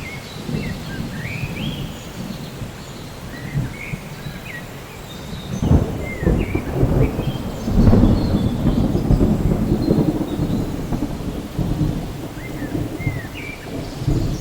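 Thunder rumbling over steady rain. The rumble builds suddenly about six seconds in and stays loud for several seconds before easing. Short bird chirps sound throughout.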